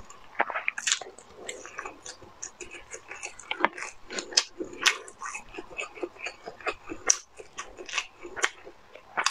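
Close-miked chewing and biting of sauce-coated imitation crab sticks: an irregular run of short wet mouth clicks and smacks, several a second.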